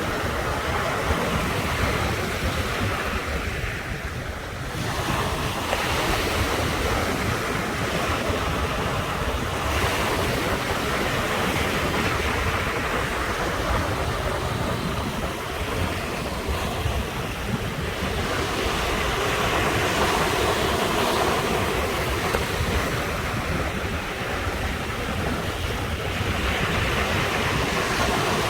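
Ocean surf washing onto the shore without a break, swelling and easing every several seconds, with a low wind rumble on the microphone.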